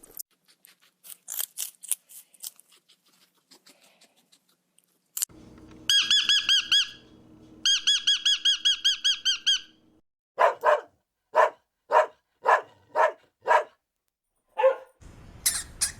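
A run of animal calls: faint high squeaks, then two bursts of rapid warbling chirps over a low hum, then a string of about ten short, evenly spaced yelps.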